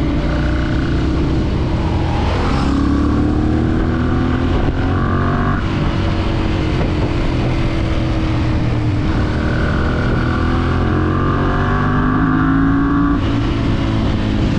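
Motorcycle engine running under way, its note rising and falling with the throttle, over steady wind and road noise.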